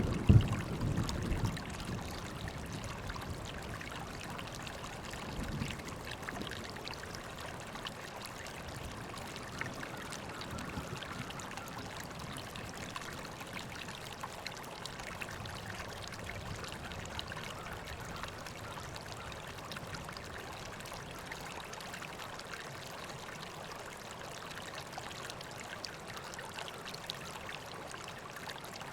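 River water flowing and trickling steadily. A brief low rumble with a single sharp knock sounds in the first second or so.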